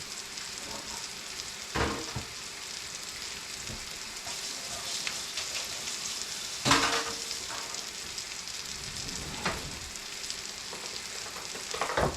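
Food sizzling and frying in a hot pan, a steady hiss, with a few knocks of a utensil or pan, the loudest about two-thirds of the way through.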